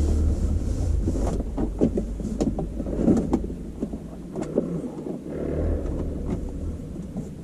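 Hands handling wiring and plastic interior trim: scattered light clicks and rustling over a low rumble.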